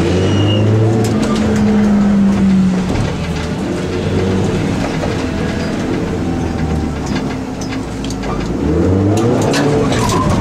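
Cabin sound of a 1995 Dodge Neon ACR's four-cylinder engine running hard into a corner. As the car spins off the track the engine falls back and a rushing noise takes over. About eight seconds in the engine revs rise again as it pulls away, with a few ticks near the end.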